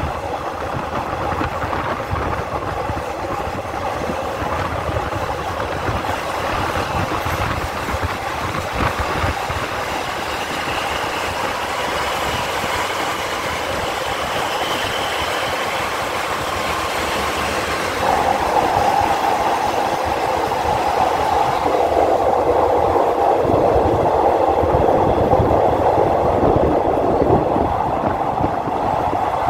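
Steady rumble and clatter of a passenger train's wheels running on the rails, heard from the rear of the last car. An electric train passes on the next track partway through, and the running noise grows louder about two-thirds of the way in.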